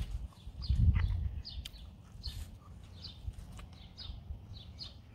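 A small bird chirping repeatedly in short high notes, roughly twice a second. A low rumble of wind or movement on the microphone comes about a second in.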